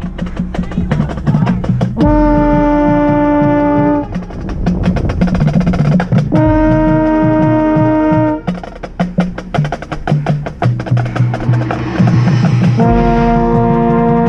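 High school marching band playing: the brass hold loud sustained chords of about two seconds, twice, and again near the end. Between the chords, rapid percussion passages fill in.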